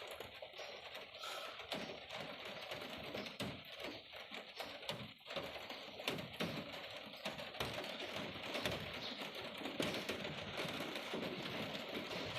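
Rain falling, with drops pattering irregularly as a steady hiss and a scatter of sharp ticks.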